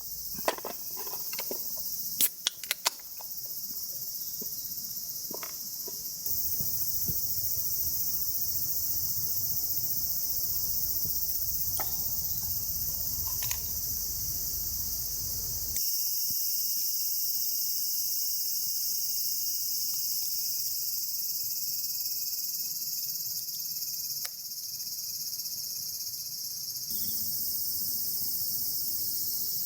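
Steady high-pitched chorus of summer insects, with a few sharp knocks and clicks in the first three seconds.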